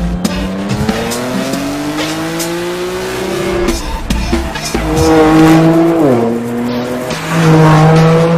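BMW M4's twin-turbo straight-six running through an Akrapovič exhaust under hard acceleration: the engine note climbs steadily, drops sharply at upshifts about three and a half and six seconds in, then climbs again.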